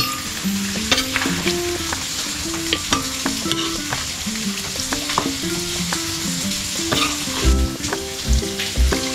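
Spiced braised mutton (kosha mangsho) sizzling in a hot pan while a spoon stirs and scrapes it, with frequent sharp clicks of metal on the pan. Light background music plays, and a few low thumps come near the end.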